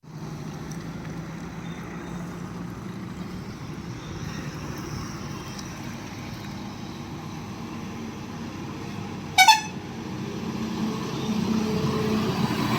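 Heavy truck engine running steadily at low revs, with one short, loud horn honk about three-quarters of the way through; the engine grows louder near the end as the truck works up the bend.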